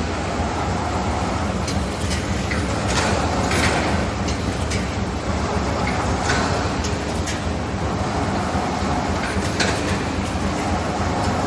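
Steel roll forming machine for drywall profiles running steadily with a low hum, with short sharp clatters every second or so.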